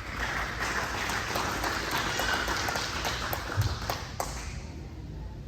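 Crowd applauding, dying away near the end.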